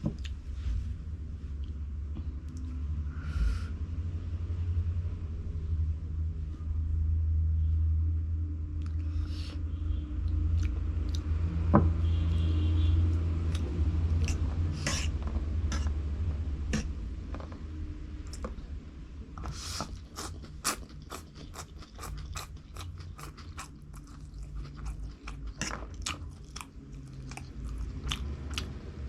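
Close-miked chewing of crunchy food, with a long run of sharp crunching clicks in the second half.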